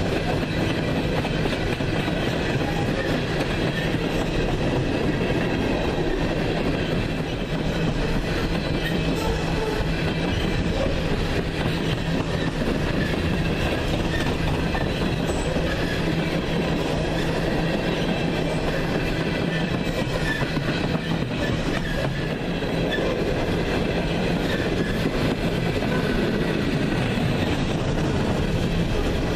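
A train rolling past steadily, wheels running on the rails with a clickety-clack and faint high ringing of wheel on rail.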